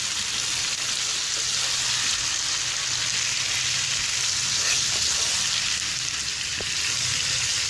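Chicken pieces and sliced onion sizzling steadily in oil in a non-stick pan while being stirred with a slotted spatula.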